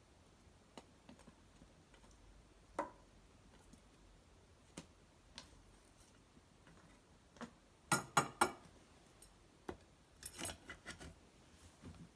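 Wood fire of cedar branches and bark burning in an irori hearth, giving sparse sharp crackles and pops. A quick cluster of loud pops comes about eight seconds in and another around ten seconds.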